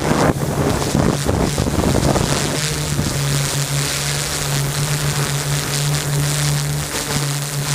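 Drone's motors and propellers humming steadily, with wind buffeting the microphone for the first couple of seconds.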